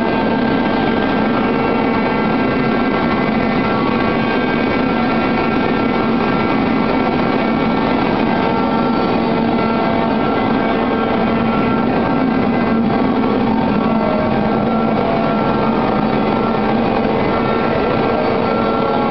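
IWS VTL Dynamic vertical glass washing machine running: a steady, unchanging machine noise with a constant hum and several steady whining tones.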